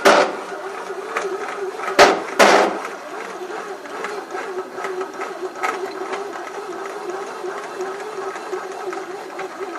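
Moulinex home bread maker running with an abnormally loud noise: a steady, slightly wavering motor hum with scattered faint clicks, and sharp knocks at the start and twice about two seconds in. The noise was accepted as a fault under warranty.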